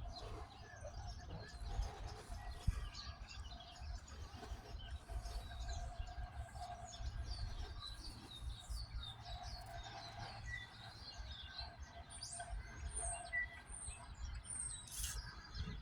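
Several small birds chirping and calling, with a steady low rumble underneath.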